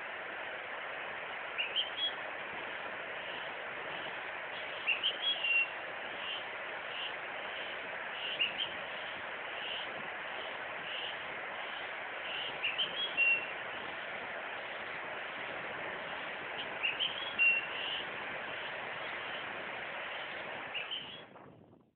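Birds chirping in short clusters of quick high calls every few seconds over a steady hiss of forest background. It all fades out near the end.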